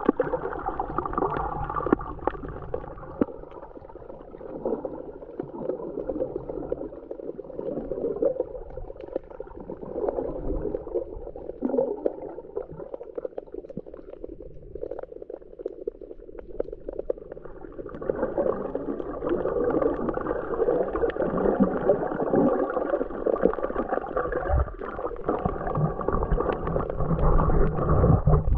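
Sea water heard from under the surface: muffled sloshing and gurgling with small clicks, growing louder about eighteen seconds in.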